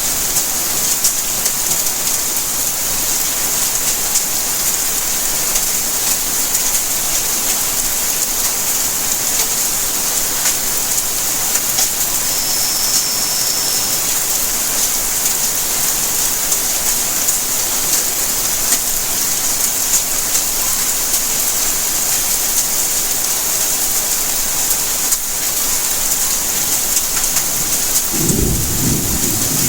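Steady rainfall: an even hiss with the patter of many drops hitting surfaces. Near the end, a low rumble of thunder sets in.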